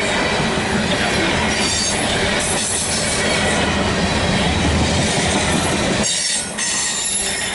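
Loaded coal train rolling past, a steady rumble of steel wheels on the rails, with a thin high wheel squeal now and then.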